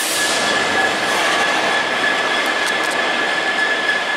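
British Rail Class 66 diesel-electric locomotive, with a two-stroke V12 EMD engine, running light through a station with no train behind it. Steady engine and rail noise with a thin high whine held at one pitch.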